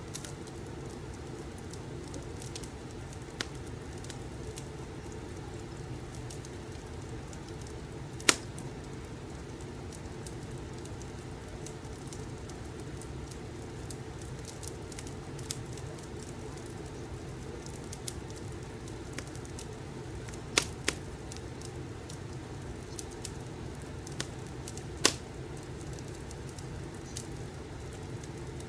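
Wood fire crackling in a fireplace: a steady low rustle with scattered sharp pops. The loudest pop comes about eight seconds in, two close together around twenty-one seconds, and another near twenty-five seconds.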